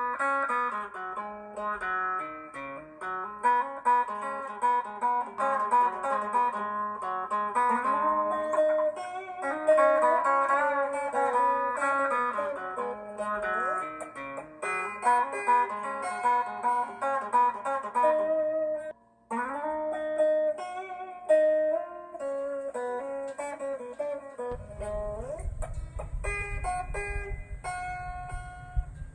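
Guitar music: a run of plucked single notes and chords that stops briefly about two-thirds of the way through and then carries on. A steady low hum comes in under it near the end.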